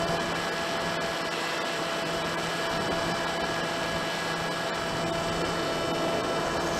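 HobbyKing Drifter RC plane's electric motor and propeller running at a steady throttle in flight: a steady whine over a rushing air noise.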